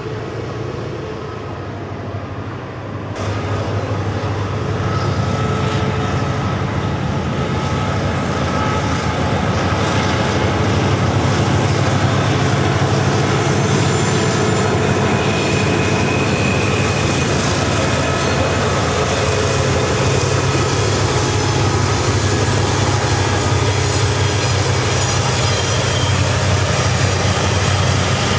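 Model diesel locomotive running, with a steady low engine rumble and a faint rattling haze that grows louder about three seconds in, then holds.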